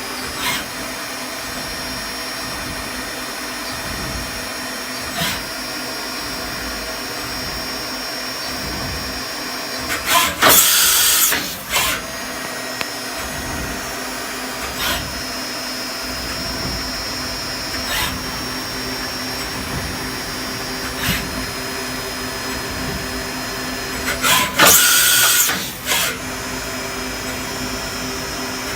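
Brother TC-R2A CNC drill and tapping center's BT-30 spindle running steadily at 3,000 RPM, a whining hum with short ticks every three seconds or so. Two loud hissing bursts of about a second and a half come about 10 s and 24 s in.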